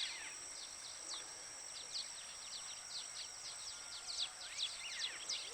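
Birds chirping, many short quick downward-sweeping notes in irregular succession, over a steady high-pitched drone.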